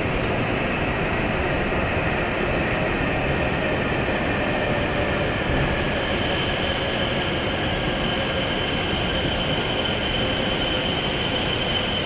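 W7 series Shinkansen train pulling slowly into the station platform: rolling rumble with a steady high-pitched squeal, getting a little louder near the end.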